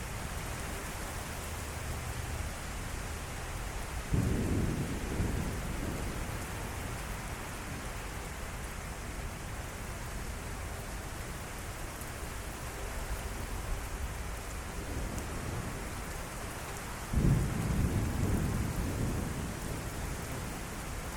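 Heavy thunderstorm rain falling steadily, broken twice by thunder: a sudden low rumble about four seconds in and another about seventeen seconds in, each fading over a second or two.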